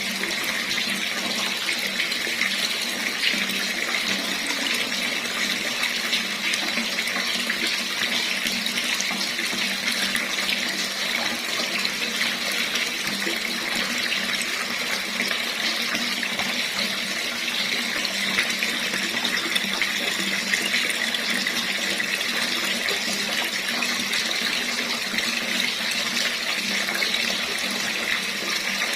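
Water running steadily from a tap, an even splashing hiss with no change.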